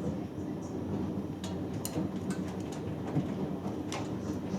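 Hoover Dynamic Next washing machine turning a wet cotton load in its drum during the wash: a steady low rumble with water sloshing and a few scattered sharp clicks.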